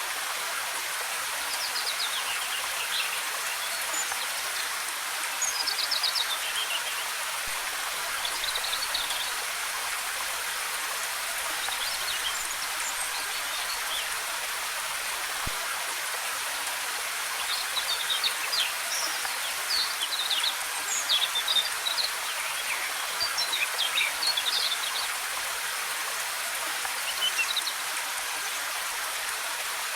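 Waterfall's steady hissing rush of falling water, with small forest birds chirping in short runs of quick high notes over it, busier in the second half.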